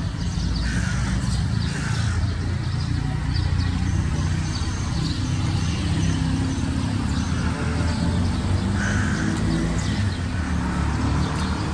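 Motorcycle engine idling steadily, with birds calling faintly over it.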